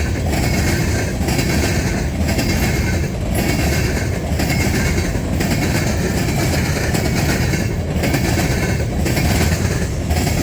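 Freight train cars rolling past close by: a steady rumble and wheel-on-rail noise with a short regular dip roughly once a second as the cars go by.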